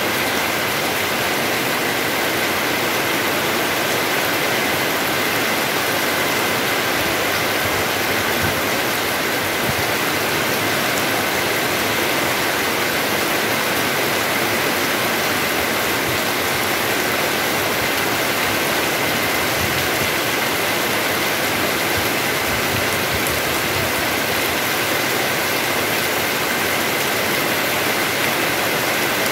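Heavy rain falling steadily: an even, unbroken rushing hiss with no let-up.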